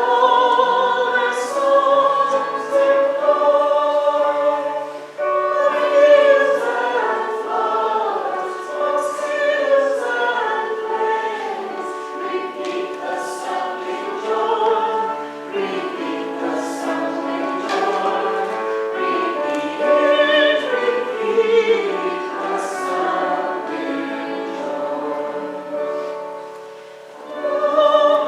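Church choir singing, many voices together in sustained phrases, with short breaths between phrases about five seconds in and near the end.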